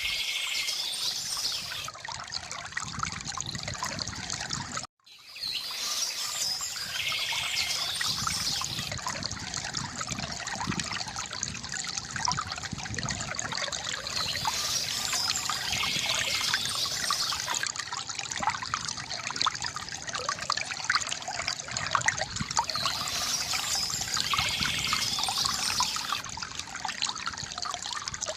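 River water gurgling and trickling steadily, with birds chirping now and then above it. The sound drops out for a moment about five seconds in.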